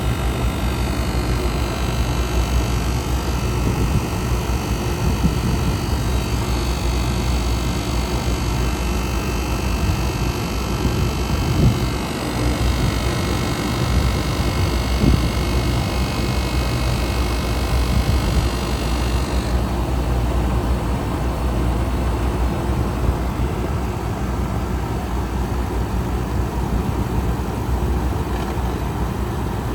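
A machine running steadily with a low, even hum; a higher hiss over it cuts off about two-thirds of the way through while the hum carries on.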